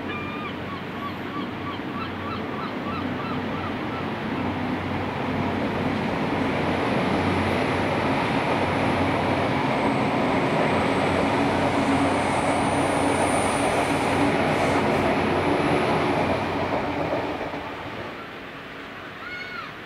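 A diesel passenger train passing: it grows louder over the first several seconds, runs loudest for about ten seconds with a thin high whine while closest, then fades away near the end. A few short pitched calls are heard near the start.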